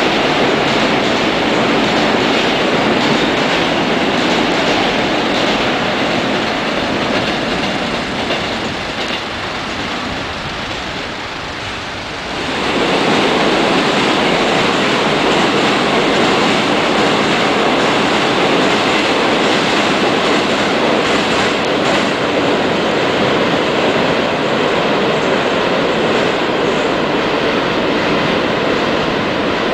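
Trains passing: a continuous rumble of wheels on the rails that eases off, then rises sharply about twelve seconds in as a nearer train runs by, staying loud after that.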